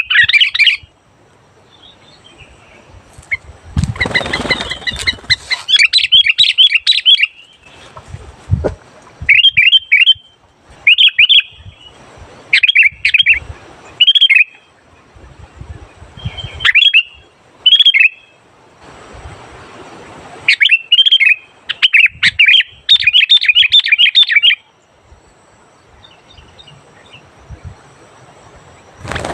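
Sooty-headed bulbul (kutilang) singing loud, clear phrases of quick bubbly chirps, in bursts of one to three seconds separated by short pauses, with a brief rustling noise about four seconds in.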